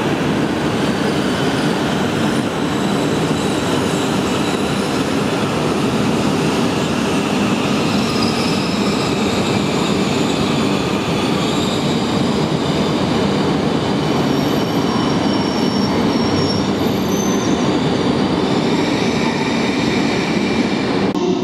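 E5 series Shinkansen train running past along the station track, a steady loud rumble and hiss of wheels and motors. Thin high-pitched wheel squeals come in and out through the middle.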